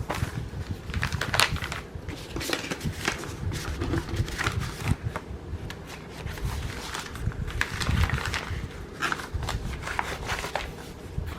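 Crinkling and rustling of a cross-stitch kit's plastic packaging and papers being handled, with many small, uneven clicks and crackles.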